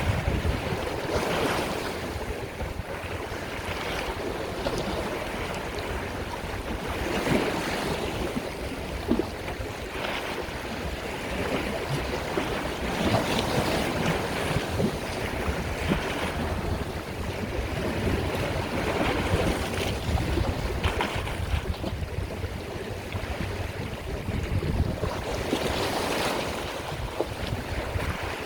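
Sea waves breaking and washing in, the surf swelling and easing every few seconds.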